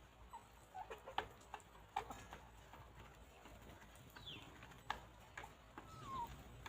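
Chickens pecking at the ground: faint, irregular sharp taps, several close together in the first two seconds and a few scattered later. A few short chirps come in among them, one falling chirp a little after six seconds in.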